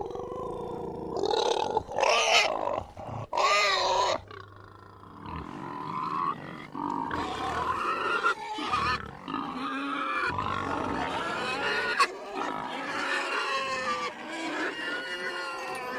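Pigs squealing and grunting: three loud, high squeals in the first four seconds, then a long run of continuous, wavering squeals.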